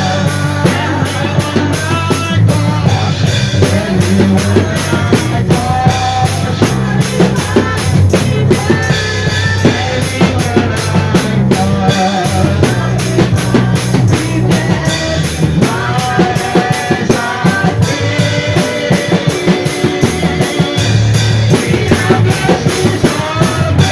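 Church praise band playing a worship chorus, drum kit and guitar keeping a steady beat.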